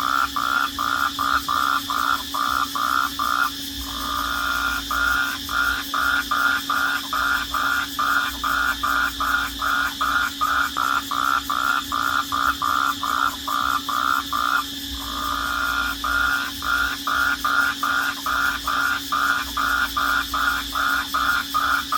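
Night chorus: a short call repeated about three times a second, which breaks off briefly twice, over a steady high-pitched trill.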